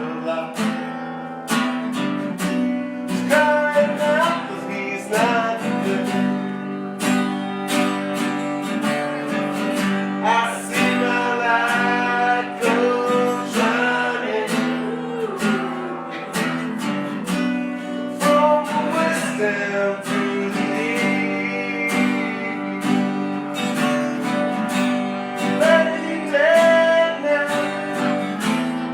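Acoustic guitar strummed steadily in a live instrumental passage between sung lines, the chords changing every second or two.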